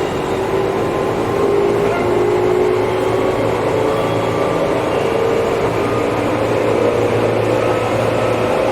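Interior running noise of a Tobu 8000 series electric train: a steady rumble of wheels on the track, with a whine from the motors and gearing that rises slowly in pitch as the train gathers speed.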